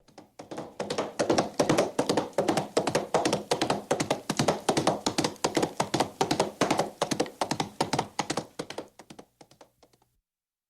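Hoofbeats of a running horse: a rapid run of knocking hoof strikes that builds up over about the first second and fades away near the end.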